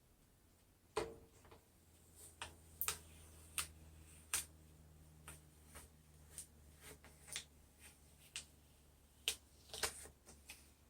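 Scattered light clicks and taps, about a dozen at irregular intervals, from handling the vinyl-decaled metal sign and craft tools, over a faint low hum.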